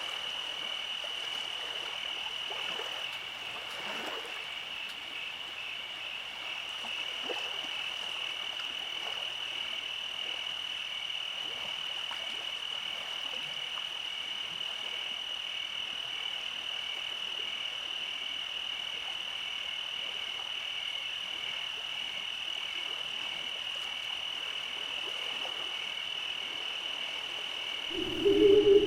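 Night chorus of frogs: a steady high-pitched pulsing trill, joined near the end by a loud, low croaking call.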